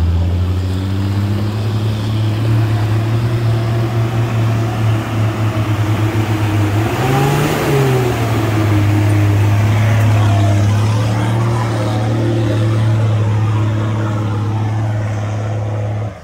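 Car engine drone with road noise, running steadily at a constant speed. About halfway through, the engine note briefly rises in pitch and falls back. The sound cuts off abruptly at the end.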